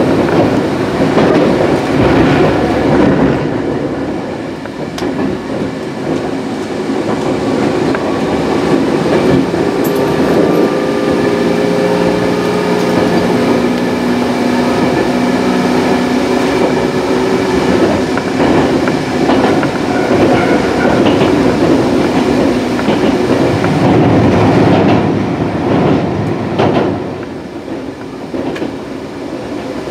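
Gakunan Railway electric train running, heard from inside the carriage: a steady rumble of wheels on the track with scattered clacks. A steady whine joins through the middle stretch. The noise eases briefly about four seconds in and again near the end.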